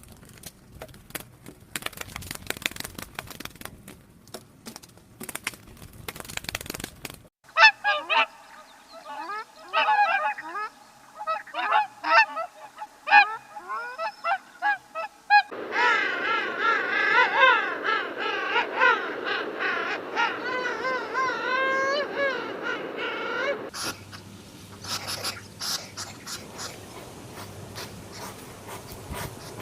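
Birds calling: a run of short, separate calls, then many calling together in a dense, wavering chorus for several seconds. Stretches of crackly rustling noise come before and after the calls.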